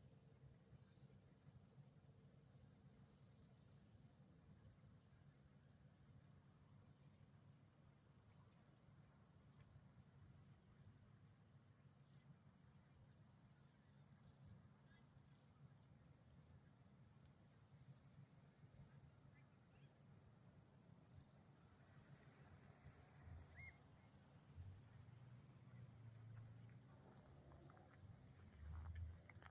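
A flock of cedar waxwings giving many faint, high, thin calls in quick overlapping succession, thinning out in the last few seconds. A low rumble lies underneath, with a couple of dull thumps near the end.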